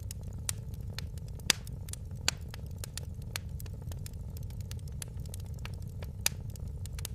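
Wood fire crackling in a fireplace: many sharp pops and snaps over a steady low rumble of the burning, with louder pops about a second and a half in, a little after two seconds, and near the end.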